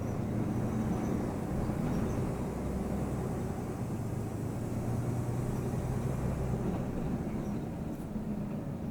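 Scania OmniTown bus running, a steady low engine drone.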